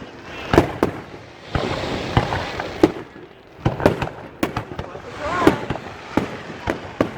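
Fireworks going off: a dozen or more sharp bangs and pops at uneven intervals, with a noisy crackle filling some of the gaps.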